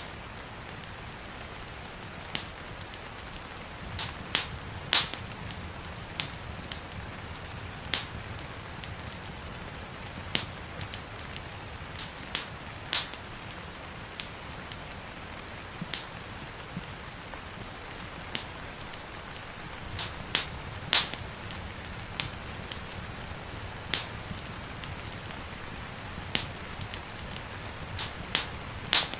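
Wood fire crackling with sharp, irregular pops every second or so, over a steady hiss of gentle rain.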